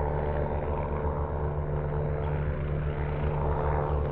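Helicopter rotor and engine heard at a distance: a steady low drone with an uneven pulsing beat.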